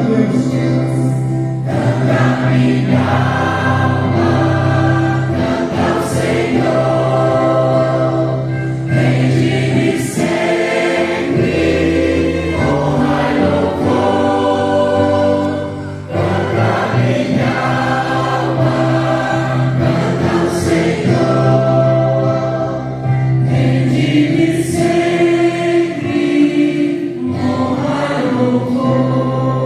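Choir singing a Christian hymn in Portuguese, with steady low held notes underneath.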